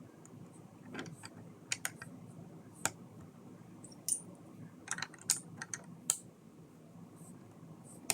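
Small plastic Lego pieces clicking and clattering as they are handled and pressed together, in a dozen or so sharp, irregular clicks.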